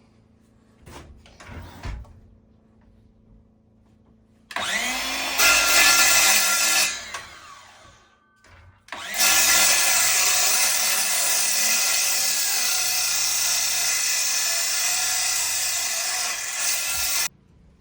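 A few knocks, then a power tool running in two stretches: a short run that spins up and winds down, then a longer run of about eight seconds that cuts off suddenly near the end.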